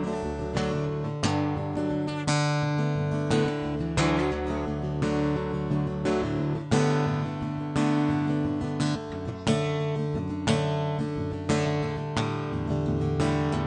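Acoustic guitar playing a song's intro: strummed chords in a steady rhythm, with no singing yet.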